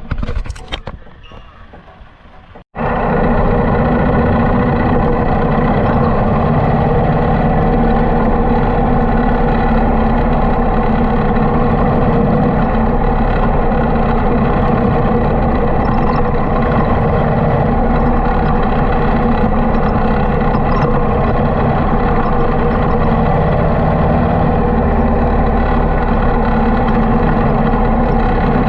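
Harley-Davidson motorcycle engine running at a steady pace on the move, a constant loud drone. It comes in abruptly about three seconds in after a short quieter stretch.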